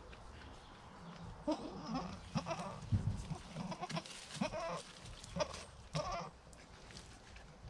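Goats bleating: a run of short calls from about a second and a half in until near the end, against a low background hum.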